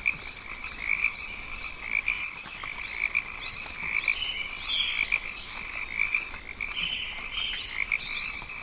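Tropical frogs calling in a chorus: a steady high trill that swells about once a second, with short rising chirps repeating over it.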